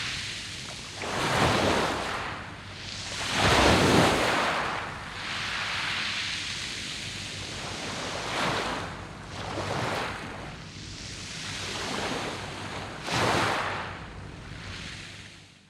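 Sea waves breaking on a round-pebble beach and washing back over the stones, in uneven surges every few seconds, the loudest about four seconds in.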